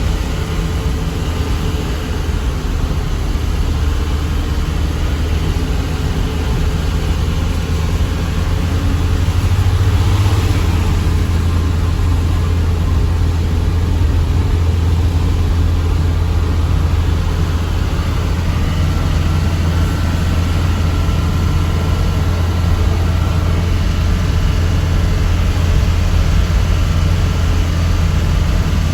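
Diesel truck engine running under way, a steady low drone that gets a little louder after about ten seconds.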